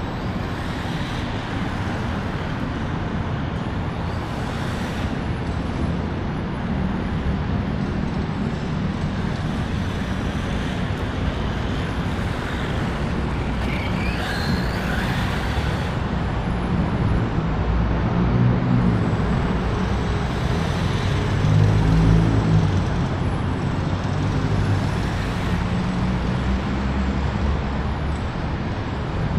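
Steady road-traffic rumble, swelling louder about 22 seconds in as a heavier vehicle's engine comes through. A brief whine glides up and down around 14 seconds in.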